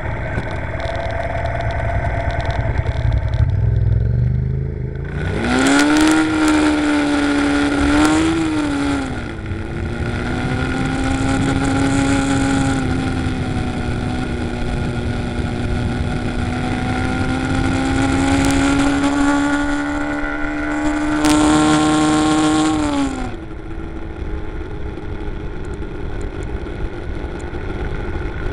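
Suzuki RV125 VanVan's single-cylinder engine heard from the rider's position. It idles at first, revs up as the bike pulls away about five seconds in, dips briefly at a gear change, and then runs steadily with a hiss of wind. Near the end the note drops back as the throttle is eased off.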